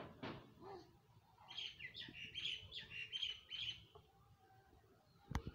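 A small bird chirping: a quick run of about eight high chirps lasting about two seconds. A single sharp knock near the end.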